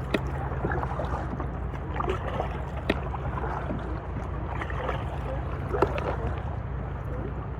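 A kayak moving through calm water, water trickling and lapping at the hull over a steady low rumble of wind on the microphone. Three sharp knocks come about three seconds apart.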